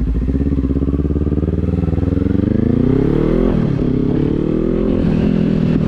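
Kawasaki Z400's parallel-twin engine accelerating, its pitch rising for about three seconds, dropping at a gear change, then pulling up again.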